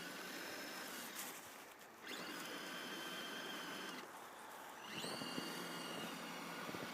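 Electric motor and gears of an RC scale truck whining as it is throttled through snow, in three stretches: the whine cuts off about two seconds in and again about four seconds in, and each time comes back rising in pitch.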